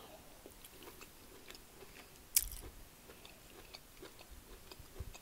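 A woman chewing a mouthful of broccoli close to the microphone, with faint scattered clicks and one sharper click about two and a half seconds in.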